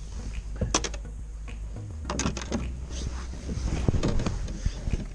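Knocks and clatter of a landing net and a freshly caught bass being handled in a kayak, with cloth rubbing against the camera's microphone. The knocks come in a few clusters, thickest near the end, over a steady low rumble.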